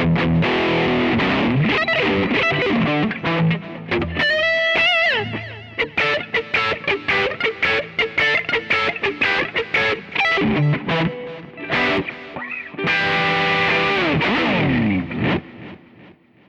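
Electric guitar played through a BOSS OD-2R overdrive pedal, giving a distorted tone with pitch bends and a run of quickly picked notes. Near the end a held chord slides down and fades out. The pedal is running at full volume again after its repair.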